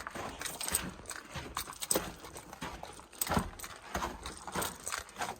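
Footsteps on the rocky floor of a mine tunnel, an uneven walking pace of roughly two steps a second.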